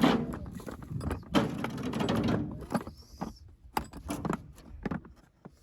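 Cleaning noises inside a farm truck: two longer stretches of scraping or brushing, then scattered knocks and clicks as things are handled.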